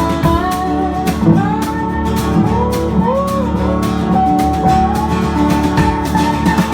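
Acoustic guitars playing an instrumental break in a folk-rock song: a lead line of sliding, bending notes over a steadily strummed rhythm guitar.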